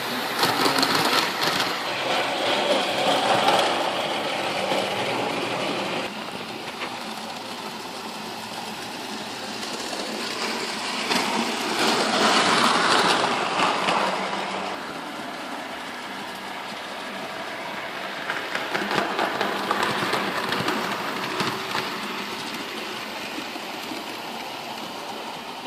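Model train locomotives running round a layout and pulling Tri-ang track cleaning cars: a steady whirr of small electric motors and the click of wheels on rail. It swells three times as the trains pass closer, about every seven or eight seconds.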